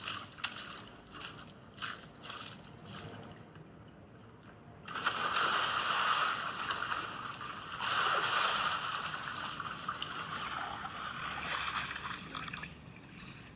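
Water being poured into a pool and splashing: a few short sloshes at first, then a loud rushing pour starting about five seconds in, a second surge about three seconds later, tailing off near the end.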